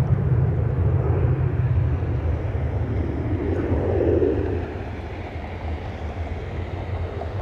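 Jet aircraft engines making a steady low rumble that eases off about two-thirds of the way through, as the plane moves away.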